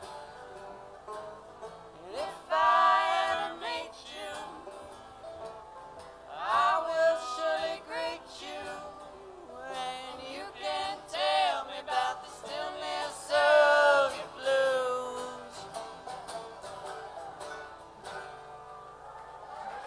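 Live acoustic song: a man sings several phrases over a plucked-string accompaniment with a country or bluegrass feel, the voice dropping out between phrases while the strumming carries on.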